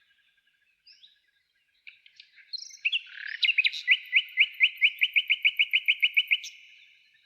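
Songbird singing in a spring forest. A few faint chirps come first. About three seconds in, a loud song of quick repeated notes speeds up and ends in a short higher flourish.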